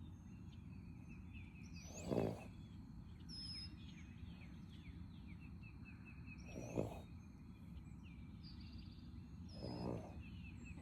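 Birds chirping and calling over a steady low background, with three short, louder pitched sounds about two, seven and ten seconds in.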